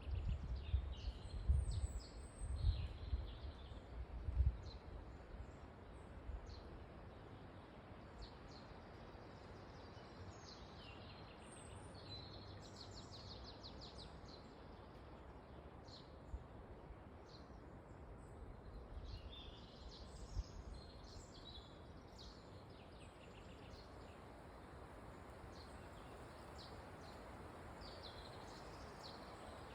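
Forest ambience in wind: a steady rush of wind through the trees, with low rumbling gusts during the first few seconds, and small birds chirping on and off throughout.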